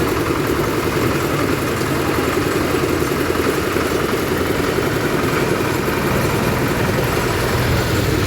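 Engine of a concrete mixer machine running steadily at a constant pace.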